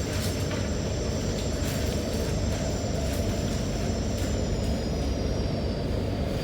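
Rotem EMU metro train running at speed, heard from inside the car: a steady rumble with a thin high whine that drops slightly in pitch after about five seconds.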